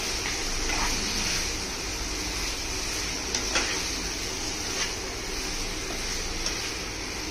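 Chicken masala sizzling in a nonstick kadhai as a spoon stirs it, with a steady frying hiss. The spoon scrapes or knocks the pan a few times, about one, three and a half, and five seconds in.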